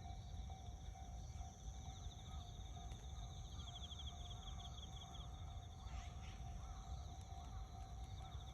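Outdoor ambience: a steady, rapidly pulsing high-pitched trill over a low rumble, with a brief faint descending call about six seconds in.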